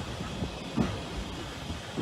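A railway carriage running along the track, heard from on board: a low rumble with irregular wheel knocks, one louder knock a little under a second in.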